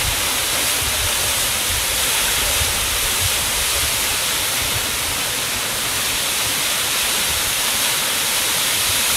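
Steady, loud rush of water from the 85-metre Higashi Shiiya Falls crashing down, with a low rumble beneath a bright hiss.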